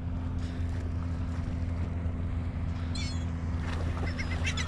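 Seagulls giving short, high wavering calls about three seconds in and again near the end, over a steady low hum.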